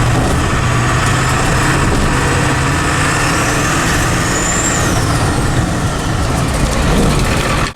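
7.3 L Power Stroke turbo-diesel V8 in a 1976 Ford F600 running steadily, with a high turbo whistle that rises to a peak a little past halfway and then falls away.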